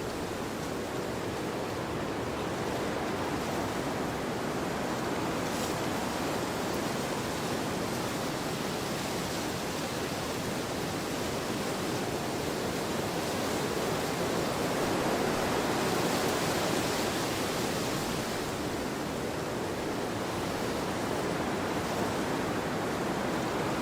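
Wind blowing across an open field: a steady rushing noise that swells a little past the middle.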